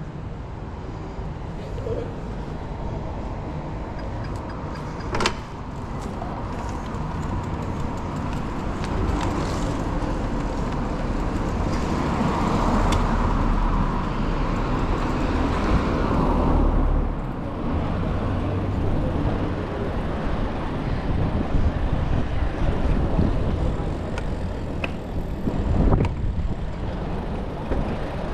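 City street traffic heard from a bicycle: a steady wash of road noise and passing motor vehicles, with a heavier vehicle rumbling close by about halfway through. A sharp click comes early and a thump near the end.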